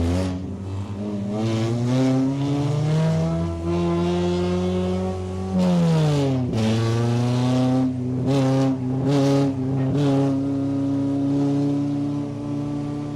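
Race car engine heard from inside the car on a lap. It revs up and holds high, drops sharply about six seconds in as the throttle comes off, then climbs again and runs steady at speed.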